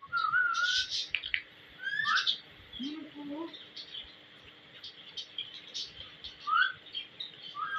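Pet ring-necked parakeet calling: short whistled glides and sharp high chirps, bunched in the first second or so, again about two seconds in, and near the end.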